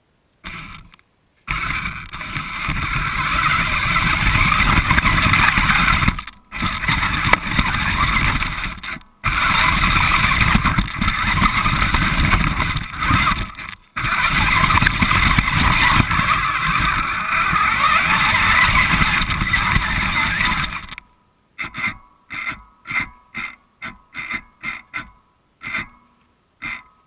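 Radio-controlled car driving with the camera mounted on it: motor and wheels running loud and steady, with three brief stops, then a string of short throttle bursts near the end.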